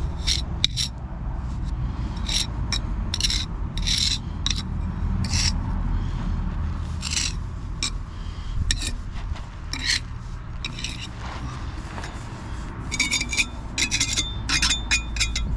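Irregular scraping and rubbing strokes on red engineering bricks as cement residue is cleaned off the brickwork, with a few sharper, ringing scrapes near the end.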